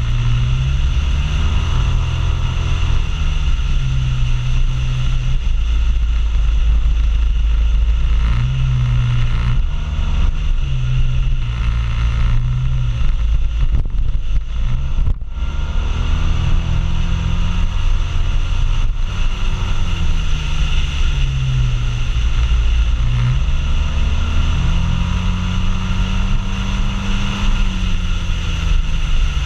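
Maxi-scooter engine running at road speed, its note stepping up and down as the throttle changes, under steady wind and road noise heard from the rider's seat.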